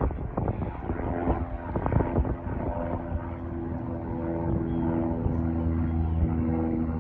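Light propeller airplane's piston engine droning at a steady pitch and growing louder from a couple of seconds in, with wind buffeting the microphone at first.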